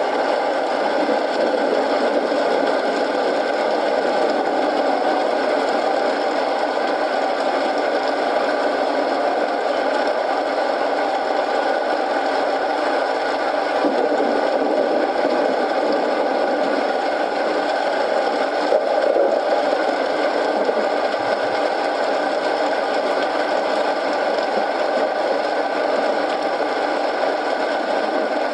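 Steady rain mixed with a wood fire crackling in a fireplace, as a continuous even hiss with occasional small pops.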